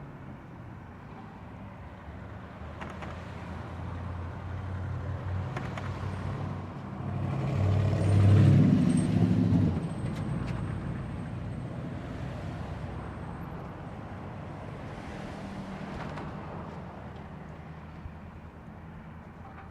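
City street traffic: engines running, with a motor vehicle passing close and loudest about eight to ten seconds in, then fading. A thin high whine sounds near the middle.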